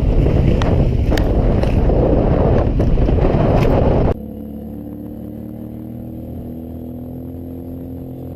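Loud wind rush on the microphone with a few sharp knocks, as from a vehicle moving at speed. About four seconds in it cuts off abruptly to a quieter, steady engine hum, a motorcycle engine running.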